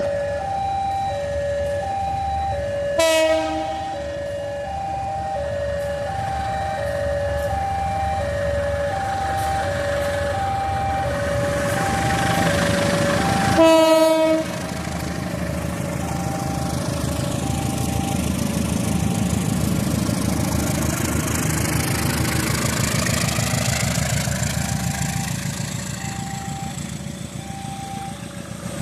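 Railway level-crossing alarm sounding its alternating two-tone warning. A diesel locomotive's horn blasts twice, short then longer, and then the train rumbles past the crossing.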